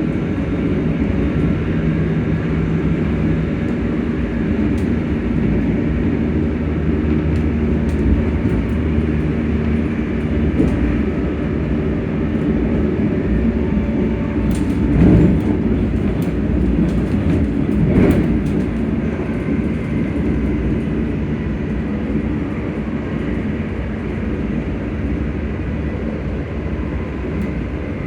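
ScotRail Class 385 electric train running, heard from on board: a steady rumble of wheels on track with the hum of its traction motors, and two brief louder thumps about halfway through.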